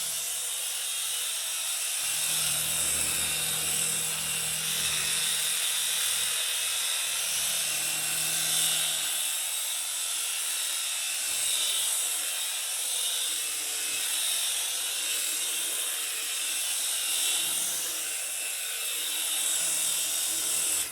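A 2-channel toy RC helicopter's small electric motors and rotors running in flight: a steady high-pitched whine that cuts off suddenly at the end.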